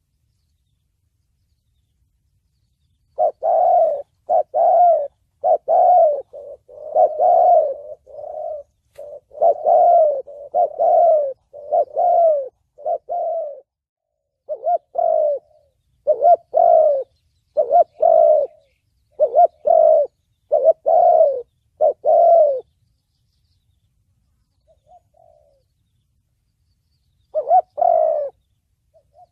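Spotted dove cooing in the deep 'thổ bầu' voice favoured for trapping lures: a long run of repeated low coos, a pause, then a couple more coos near the end.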